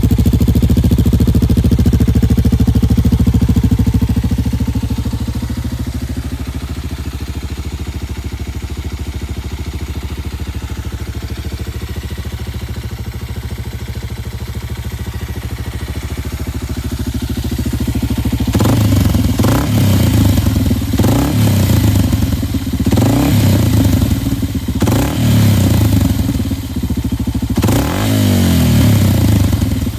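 Kawasaki Super Sherpa's 250 cc single-cylinder four-stroke engine breathing through a cheap aftermarket muffler, idling steadily, then revved in repeated blips from a little past halfway, the pitch rising and falling with each blip.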